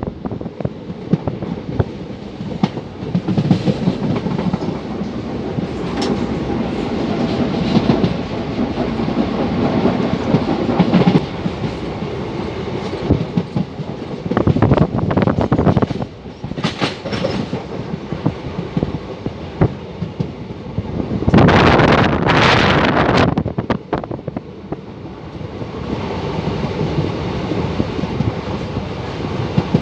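Moving train running over the rails, a steady rumble with the clickety-clack of wheels over rail joints. It surges louder for a couple of seconds about two-thirds of the way through.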